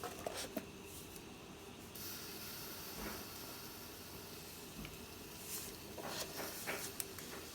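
Faint steady hiss that brightens about two seconds in, with a few light clicks and taps of kitchen handling near the start and toward the end.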